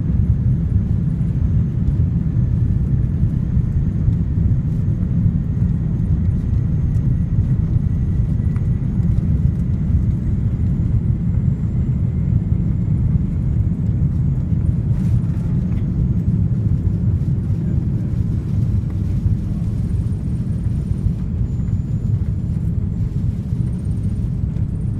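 Steady low rumble of an Airbus A380 heard from inside its upper-deck cabin: engine and airflow noise, with a faint thin high whine above it.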